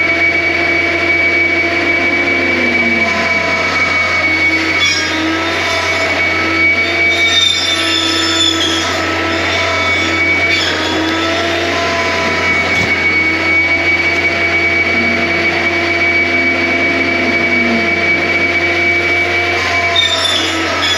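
John Deere 333G compact track loader running hard: a steady diesel drone under a high hydraulic whine. Several tones break off and come back every second or two as the machine works its limb saw and brush-cutter attachments.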